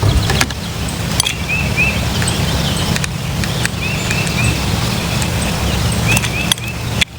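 Wild birds calling in short, quick runs of two or three clear high notes, several times over, over a steady low rumble and a few sharp clicks.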